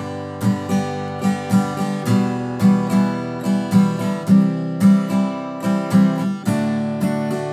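Acoustic guitar strummed in the standard campfire rhythm at a brisk tempo: down on one, then down-up strokes with the down on three left out. The strokes come about three a second, and the chord changes about every two seconds.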